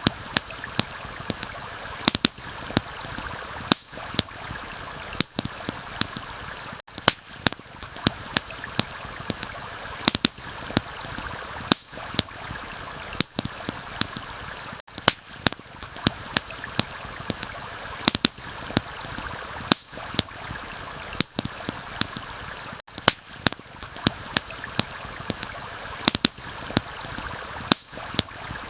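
A steady rushing stream with a campfire crackling over it: sharp, irregular pops and snaps, several a second.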